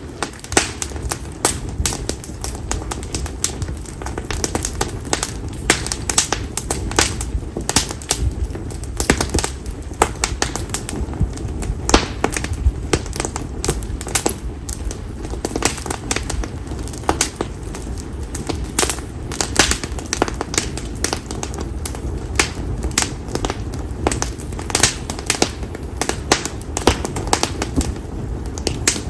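Bonfire of split konara oak firewood burning, crackling and popping with many sharp, irregular snaps, several a second, over a steady low rush of the flames.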